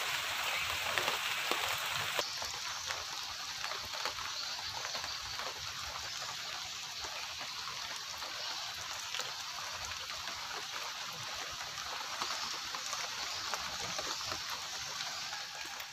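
Steady rain falling: an even hiss with many faint scattered drop ticks.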